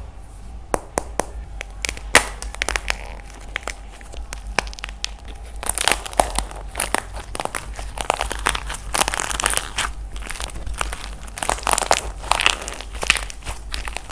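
Dried plaster clay being pressed and cracked: a few separate sharp cracks at first, then two longer spells of dense crunching and crackling.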